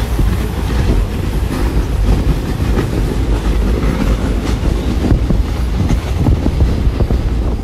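Passenger train running along the track, heard from on board: a steady low rumble with scattered sharp clicks from the wheels and rails.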